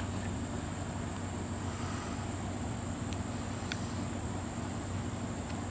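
Steady outdoor background: a constant high-pitched drone of crickets over a low steady rumble, with two faint clicks a little past the middle.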